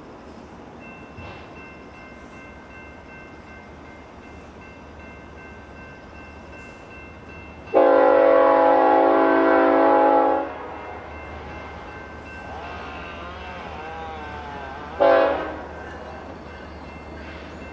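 Locomotive air horn on a BNSF train: one long blast of about two and a half seconds, then a short blast about five seconds later, over a low steady rumble from the train.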